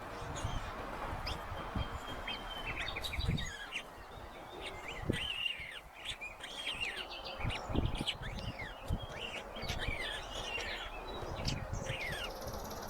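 Small birds chirping, many short high calls sliding up and down in pitch and overlapping, over a low background rumble with a few soft low thuds.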